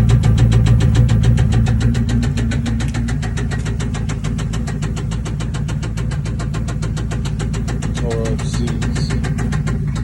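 The freshly swapped engine of a 2000 Lincoln Town Car idling with an even, rapid pulse, dropping a little in loudness about two seconds in. A brief voice sounds near the end.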